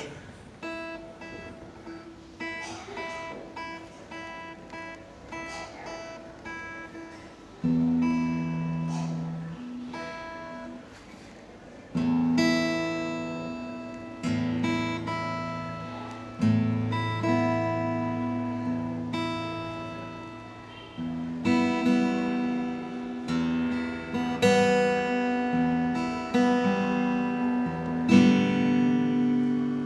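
Acoustic guitar played freely without a set pattern: for the first seven seconds or so, soft picked single notes, then louder strummed chords that ring out, a new one every second or two.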